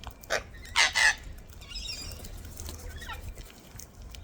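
Cockatoo giving three short, loud, harsh screeches within the first second or so, followed by softer chattering calls.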